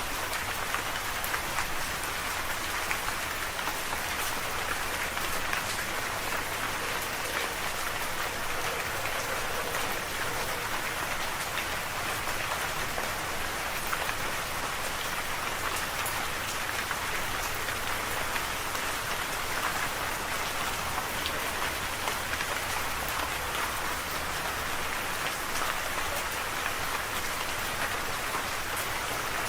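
Steady rain falling, a dense even hiss of drops pattering on a surface.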